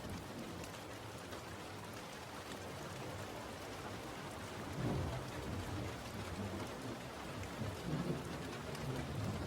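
Steady rain falling, with low rolls of thunder that swell about halfway through and again near the end.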